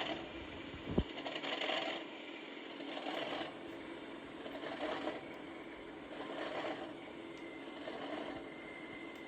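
Sound decoder in an OO gauge Accurascale Class 37 playing its cold engine start through the model's small speaker: the diesel turning over with a pulse about every second and a half, not yet running. A sharp click about a second in.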